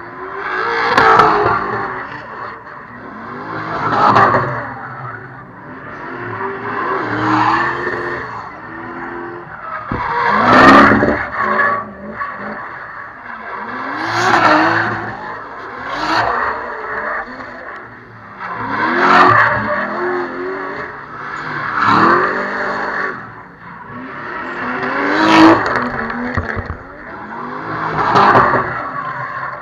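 Drift cars revving hard with tyres squealing, in about ten swells roughly three seconds apart, the engine pitch climbing and falling in each.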